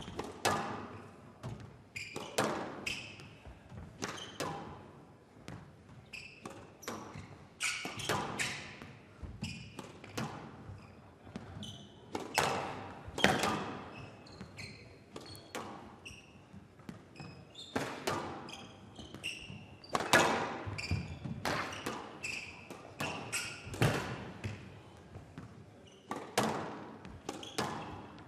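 A squash rally: the ball struck by rackets and hitting the walls and floor in sharp cracks, at an irregular pace of roughly one a second, the loudest hits about a third and two-thirds of the way through.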